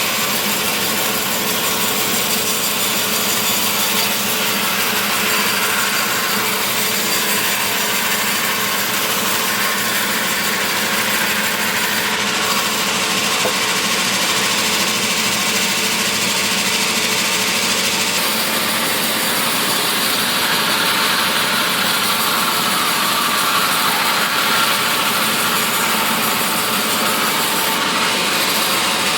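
Power sawing machinery cutting mahogany timber, running steadily and continuously with a few steady machine tones under the cutting noise. A higher hiss joins about two-thirds of the way through.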